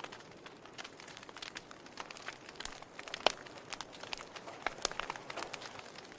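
Wood fire crackling in a fireplace: irregular sharp pops and snaps over a soft hiss, with one louder pop about three seconds in.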